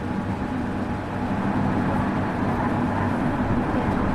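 Cabin sound of a Tokyu 1000 series electric train's motor car running on the Ikegami Line: steady wheel-and-rail noise with a low hum, rising slightly about a second and a half in.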